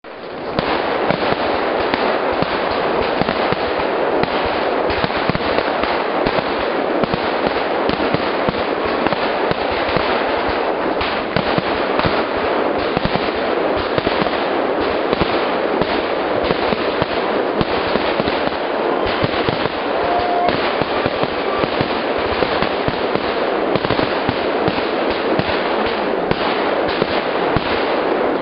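Fireworks crackling in a dense, unbroken run of rapid small bangs, steady in loudness.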